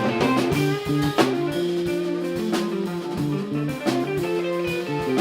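Live rock band playing: electric guitar and bass over a drum kit keeping a steady beat.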